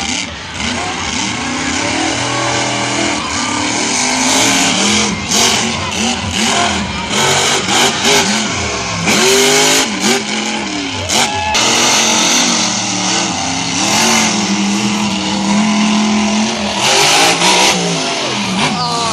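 Monster truck engines revving hard and dropping back again and again, the pitch swinging up and down throughout, with short bursts of loud noise in between.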